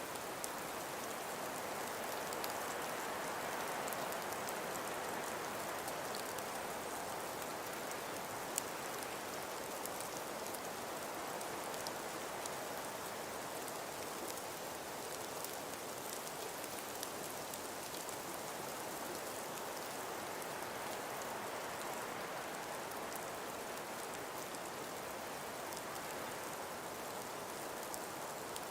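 Wind-driven snowfall: a steady, even hiss with scattered faint ticks and one sharper tick about nine seconds in.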